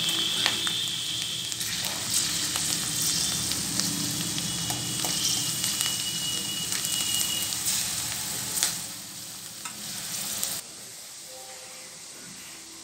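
Soaked chana dal sizzling as it deep-fries in hot oil in a kadai, with a few sharp clicks of a slotted spoon stirring it. About two seconds before the end the sizzling cuts off suddenly to a low, even hiss.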